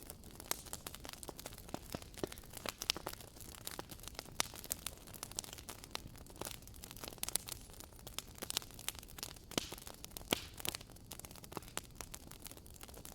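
Wood campfire crackling: a steady stream of irregular sharp pops and snaps over a low hiss, with a few louder pops.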